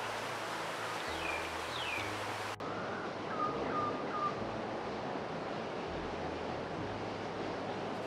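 Forest birds calling over a steady rushing hiss: two quick falling chirps about a second in, then a short run of four brief chirps around three to four seconds in.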